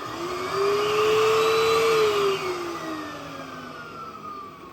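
Electric balloon air pump running, a loud blower hum whose pitch rises as it starts, holds for about two seconds, then sinks as it winds down.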